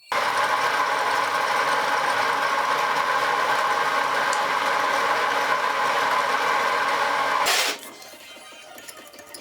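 An electric power tool running steadily at full speed on a metalworking job, cutting off about seven and a half seconds in, followed by quieter noise and a few clicks.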